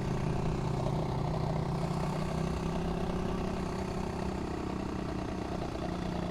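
FRP GMB100 mini bike's 99cc four-stroke engine running steadily while the bike is ridden, its pitch shifting slightly a couple of times.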